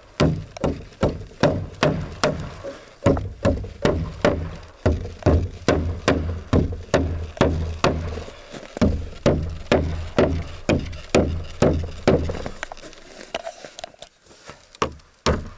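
Hammer driving nails into wooden boards: a quick, steady run of blows, about two or three a second, that stops about twelve seconds in, followed by a few scattered knocks.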